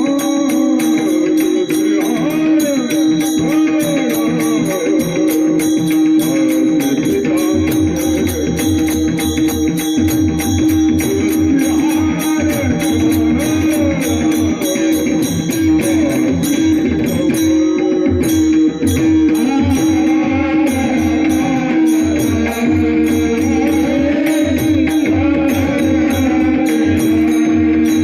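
Varkari kirtan music: a male voice sings a bending melodic line over a steady held drone note. A pakhawaj drum and a fast, even ringing of small hand cymbals keep the beat.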